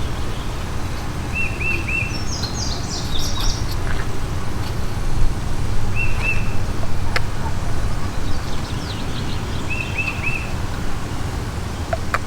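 Songbirds calling: one repeats a short phrase of three quick chirps about every four seconds, with bursts of higher twittering between. Under them is a steady low rumble, and there is a sharp click about seven seconds in.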